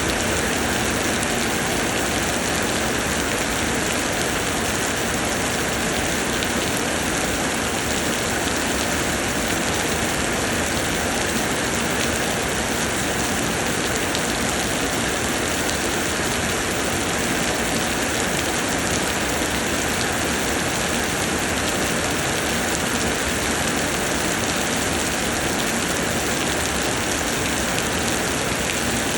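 Heavy summer rain pouring down steadily, an even unbroken hiss of rain on surfaces.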